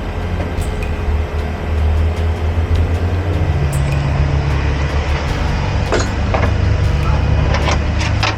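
Heavy truck diesel engine running steadily with a low rumble, with a few sharp metallic clanks near the end.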